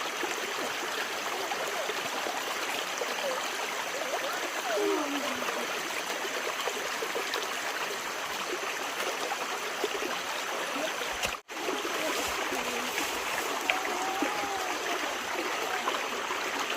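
Water of a flowing stream, a steady rushing and trickling, that cuts out briefly about two-thirds of the way through.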